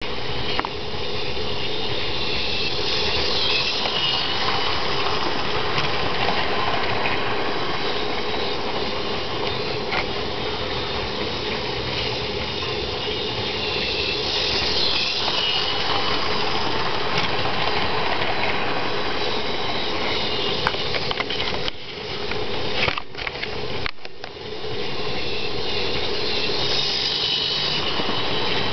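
HO-scale model train locomotive running along its track pulling a string of cars: a steady mechanical running noise with a high whine that swells and fades, briefly dipping a few times about three quarters of the way through.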